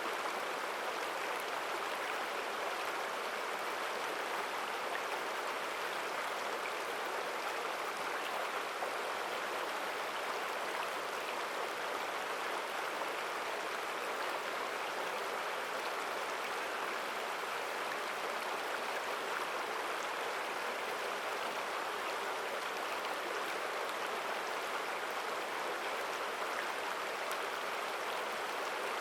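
Mountain stream rushing over rocks: a steady, strong sound of flowing water, even and unbroken.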